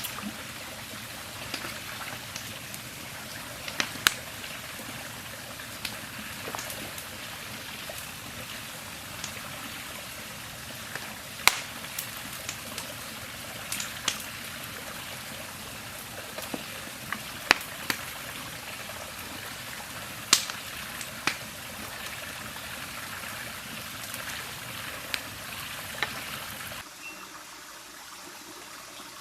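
River water running steadily, with scattered sharp clicks and knocks over it, a few of them much louder than the rest. Near the end the water noise suddenly drops lower.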